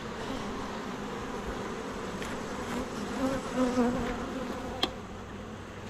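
Many honeybees buzzing steadily around an open hive, the hum wavering in pitch as bees fly past. A sharp click sounds about five seconds in.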